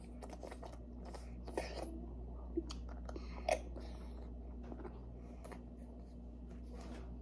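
A child chewing and sucking on lychee jelly pudding, with soft wet mouth clicks and smacks and a few sharper clicks in the first half.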